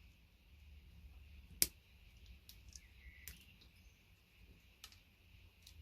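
Scattered sharp clicks and snaps of side cutters cracking plastic VGA connector housings to free the gold-plated pins, one louder snap about a second and a half in, over a faint low hum.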